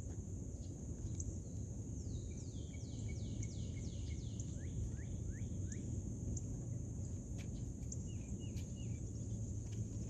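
Outdoor ambience with a bird singing a quick run of about a dozen down-slurred notes between about two and six seconds in, then three short chirps near the end. Underneath are a steady high drone and a low rumble.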